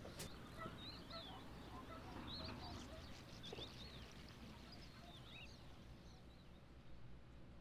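Faint birds chirping in many short calls, thinning out after about five seconds, over a low steady background rumble.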